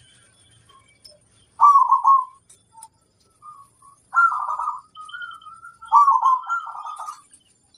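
Zebra doves (perkutut) cooing: three loud phrases of quick rolling coos, each about a second long, with a softer phrase between the second and third. Faint high chirps run underneath.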